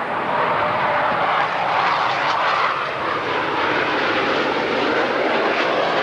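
Blue Angels F/A-18 Hornet jets flying overhead, their General Electric F404 turbofan engines producing a loud, steady roar.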